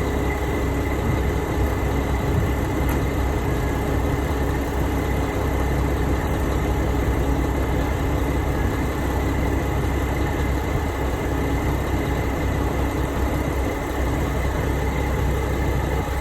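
Mack R-model truck's diesel engine idling steadily.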